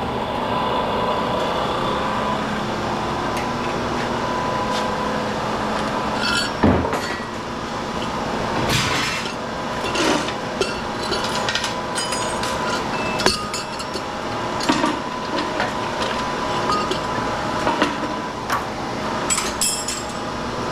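Scattered metallic clinks and knocks of scrap aluminum pieces being handled and worked on, over a steady background hum.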